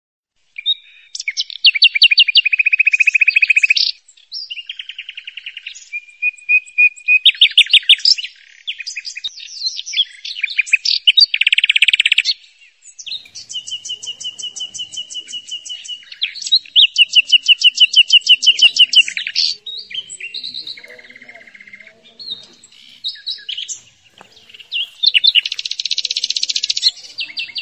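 Songbird singing a varied series of phrases, loud and clear: fast trills and rapid runs of repeated chirps, each phrase a second or a few long, with short pauses between them.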